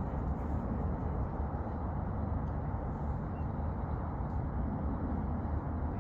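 Steady low rumbling background noise with no distinct events, heaviest in the deep bass.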